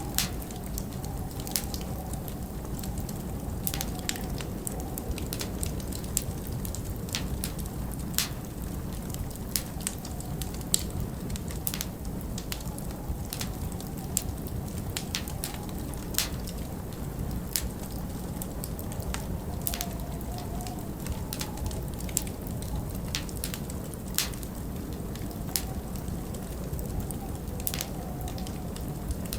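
Wood fire crackling in a fireplace: irregular sharp pops and snaps, about one or two a second, over a steady low rush of winter wind.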